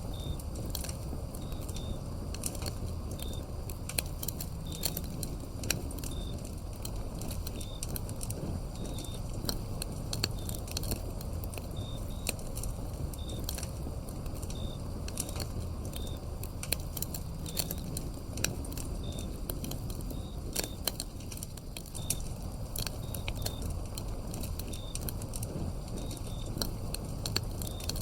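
Wood fire crackling with frequent sharp pops over a low rumble of the flames, while crickets give short high chirps that repeat every second or so.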